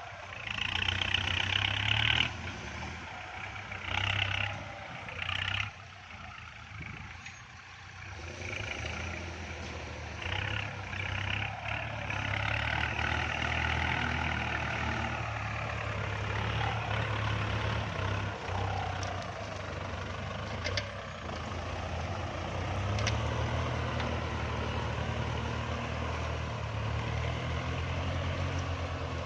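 Kubota MU4902 tractor's diesel engine running steadily under load while pulling a disc plough. Bursts of high-pitched noise come near the start and again about a dozen seconds in.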